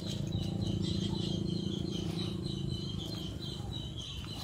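Birds chirping, with quick repeated high chirps over a steady low hum.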